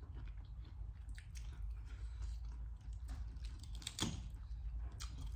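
Close-up chewing of crispy Korean fried chicken: irregular small crunches and wet mouth clicks, with a sharper crackle about four seconds in.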